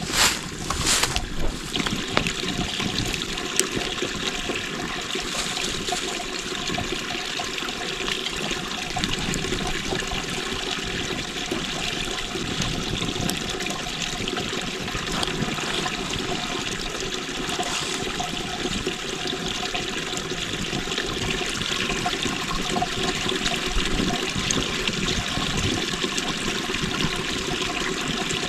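Water running and trickling steadily, with a couple of sharp knocks right at the start.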